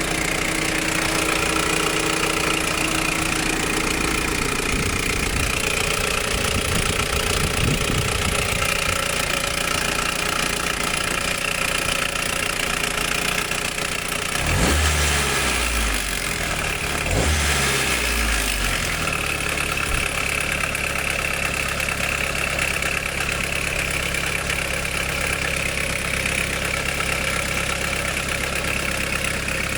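Nissan GA16DS 1.6-litre carburetted four-cylinder engine idling with the mechanical noise that the owner blames on a bad timing chain. The throttle is blipped briefly a few times around the middle, the engine speed rising and falling back to idle each time.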